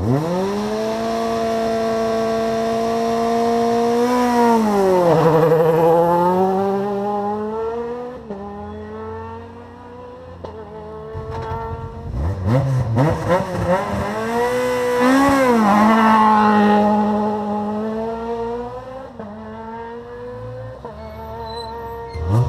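Rally car engine held at steady high revs, then dropping about four seconds in and climbing again. Around the middle come quick rev blips, then another spell of held revs that falls away near the end.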